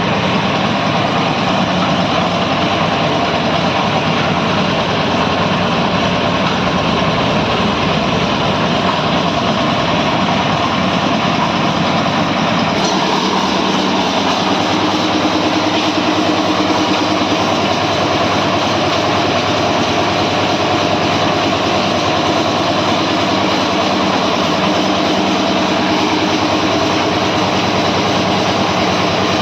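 One-bag hopper concrete mixer running on a trial, its engine going steadily and the drum turning. About thirteen seconds in, the running note shifts and a steadier hum comes in.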